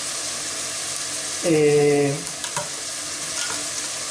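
Food sizzling steadily in a pan. A short hum in a man's voice comes about a second and a half in, and a couple of light knife clicks on a wooden cutting board follow.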